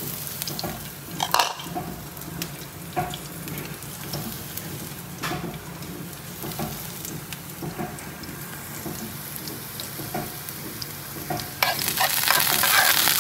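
Garlic and shallots frying in hot oil in a nonstick pan: a steady sizzle with scattered clicks of a spoon against the pan. Near the end the sizzle suddenly gets much louder as the spoon adds more to the pan.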